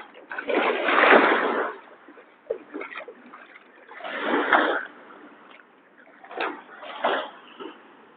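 Small waves of the Sea of Azov splashing at the shore in uneven surges. The largest come about a second in and about four seconds in, with shorter splashes between.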